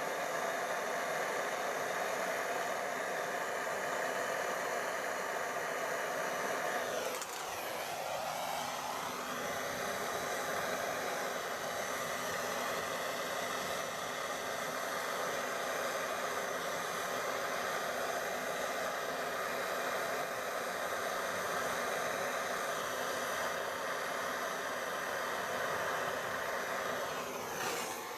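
Gas blow lamp burning steadily as it heats the joint for silver soldering. Its tone shifts briefly about seven seconds in, then settles back to a steady burn.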